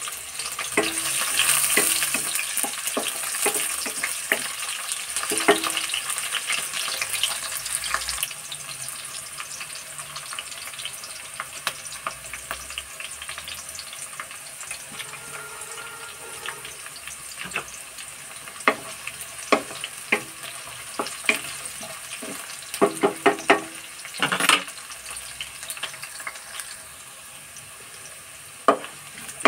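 Sliced onions sizzling in hot oil in a metal kadai: a steady frying hiss dotted with crackles and pops. Whole spices and cumin seeds tipped into the oil set off a cluster of louder crackles later on.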